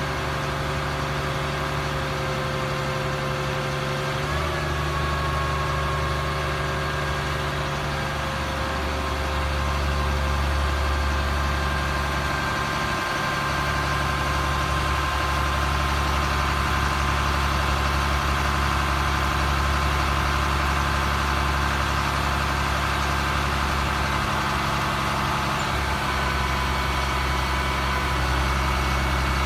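Ford F750 crane truck's engine idling steadily, with a steady whine that shifts slightly in pitch about four seconds in and again near the end.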